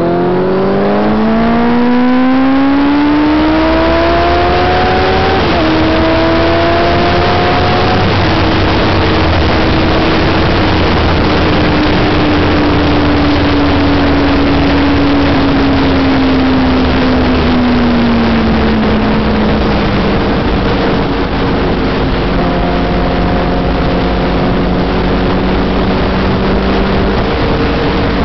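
Honda CBR1000RR inline-four engine pulling hard through the gears, its pitch rising and dropping sharply at two upshifts, then cruising at steady revs that slowly sag. Heavy wind rush over the microphone at riding speed runs underneath throughout.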